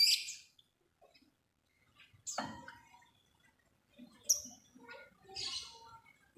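Lovebird calls: a few short, high chirps and a raspy chatter, spaced out with quiet gaps between them.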